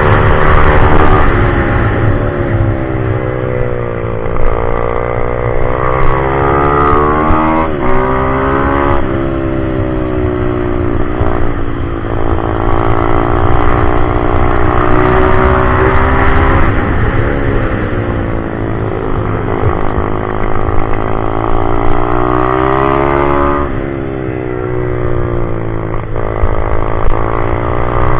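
Pit bike's single-cylinder four-stroke engine under hard riding, its pitch climbing as it accelerates and dropping back off the throttle, over and over, as it is ridden around a track.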